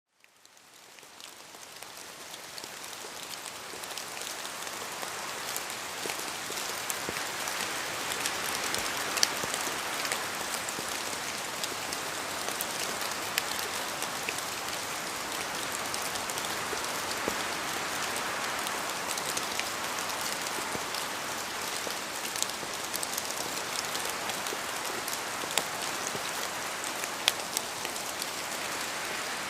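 Steady rain falling in a forest, with heavier drops dripping from the trees as sharp, scattered ticks over a dense patter. It fades in over the first few seconds, then holds steady.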